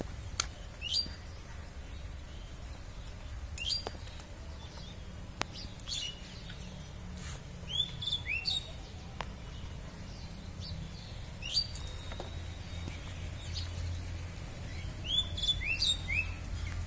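Small birds chirping: short, sharp, high calls that drop in pitch, repeating every second or two, over a steady low background rumble.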